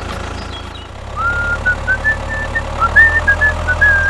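Toy tractor engine hum, low and steady, growing louder about a second in as the tractor pulls its loaded gravel trailer. Over it runs a short tune of quick high whistle-like notes.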